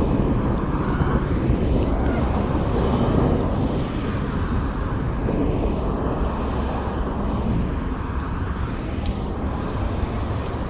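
Steady, dense low rumbling ambience with no distinct events.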